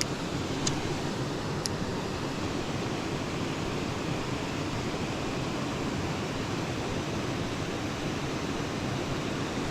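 Steady rushing of creek water, an even, unchanging noise, with two short high ticks about a second apart near the start.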